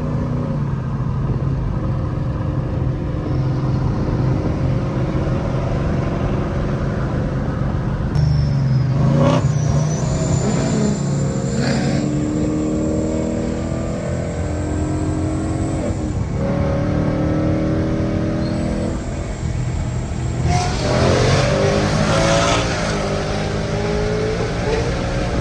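Car engines running, the pitch shifting up and down as they are revved, with louder revving about eight seconds in and again near the end.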